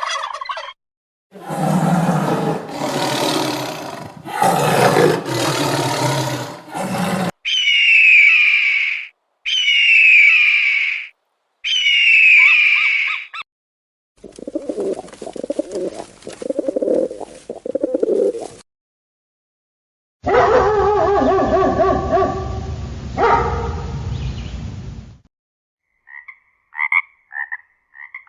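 A string of different animal calls cut one after another with short silent gaps: a long noisy call, three short repeated calls, a run of low pulsing calls, a longer pitched call, then quick short chirps near the end.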